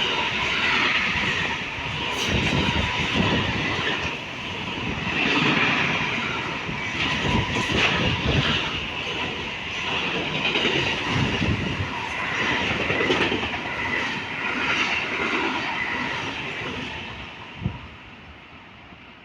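Freight train passing straight through without stopping, its wagons rolling by with a steady rumble and scattered knocks from the wheels. It fades away near the end, with one sharp knock just before it dies out.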